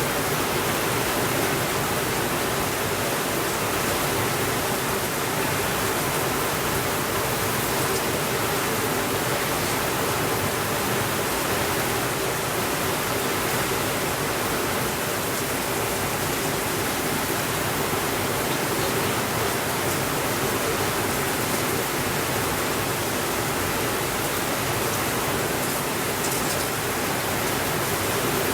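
Steady rainfall: a dense, even hiss of rain with no thunder.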